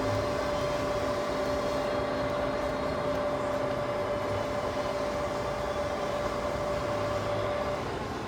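Summit 16x60B engine lathe running with the half nut engaged, the leadscrew driving the carriage in a threading feed: a steady mechanical hum with a whine that drops out near the end.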